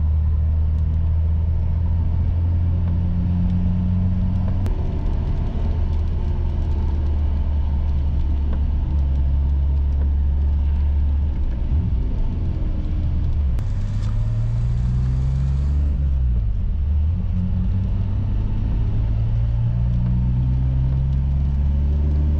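BMW E28's engine heard from inside the cabin under acceleration, its note climbing and falling back a few times as it is taken up through the gears, over steady tyre noise on the wet road.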